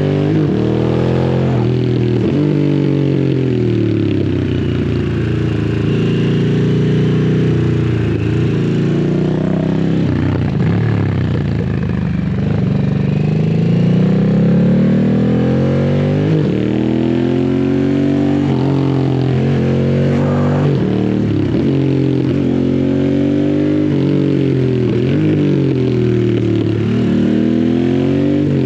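2022 Harley-Davidson Sportster S's 1250 cc V-twin running through a custom slip-on exhaust while riding. The revs climb and drop again and again as the throttle is rolled on and off through the bends, held low on a wet, sandy road.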